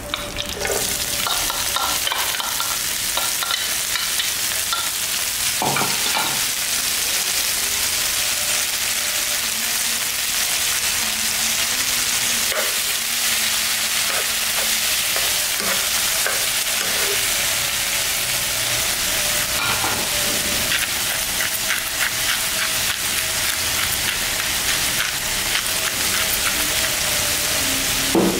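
Bean sprouts frying in hot oil in a non-stick pan, the sizzle jumping up as they are tipped in and then holding steady while they are stirred with a wooden spatula. A few short knocks come from the stirring.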